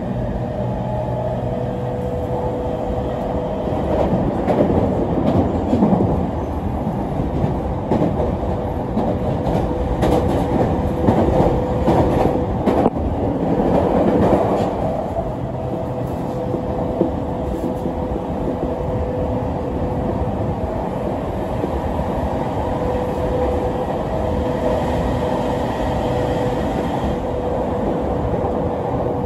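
E231 series electric commuter train running at speed, heard from inside the car: a steady rumble of wheels on rail with a steady hum. The noise grows louder for about ten seconds partway through, with a run of sharp clacks.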